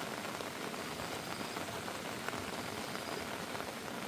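Heavy rain falling steadily: a continuous hiss with scattered individual drop impacts.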